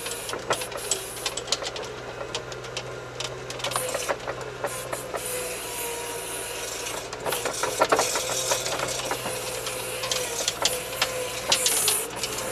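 Wheeled all-terrain vehicle's engine running steadily under load as it pushes through deep snow, heard from inside the cab. Frequent clatter and rattling from the body, with scraping and hissing, run over the engine note. It is struggling for traction and losing momentum.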